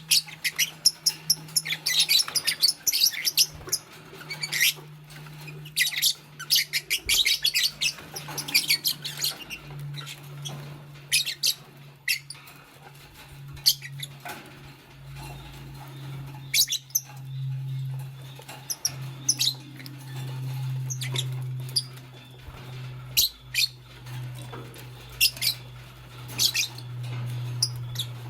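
Fischer's lovebirds chirping in quick, high, squeaky bursts, thick and busy for the first ten seconds, then scattered. A steady low hum runs underneath and grows louder in the second half.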